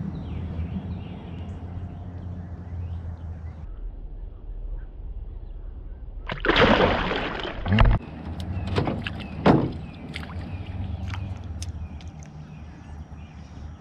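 A bass being released back into the water: a loud splash about six and a half seconds in, then a knock and a couple of smaller splashes, over a steady low hum.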